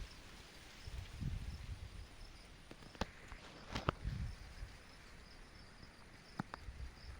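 Insects chirping faintly in a steady pulsing pattern, with low rustling and a few sharp clicks of handling.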